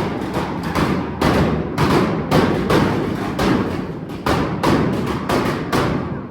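A loud run of heavy thuds at an uneven beat, over a steady low rumble.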